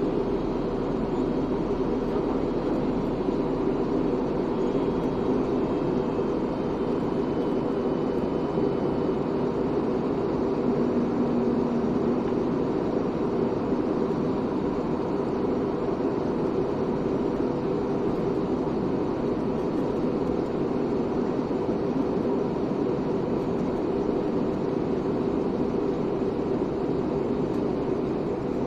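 Steady drone of an airliner's cabin in flight: engine and airflow noise, even and unchanging throughout.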